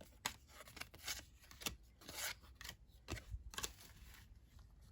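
Cardboard trading cards being flipped through by hand, one card slid off the stack after another: faint, irregular swishes and light clicks, two or three a second.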